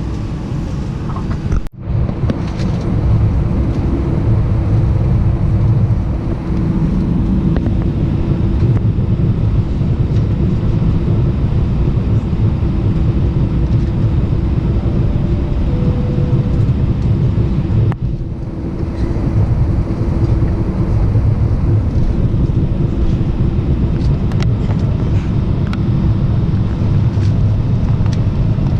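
Inside the cabin of an Airbus A319, the engines give a steady hum over a loud low rumble. The sound breaks off for a moment about two seconds in.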